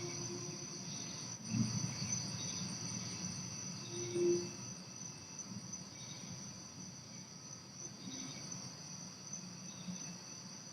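Crickets chirping steadily in the night, over a low, distant rumble. A short low tone sounds about four seconds in, part of the unexplained horn-like noise that the recordist says echoes all around.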